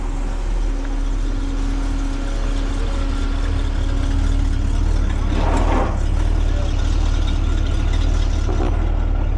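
Tow truck's engine idling steadily, with a brief rushing noise about five and a half seconds in.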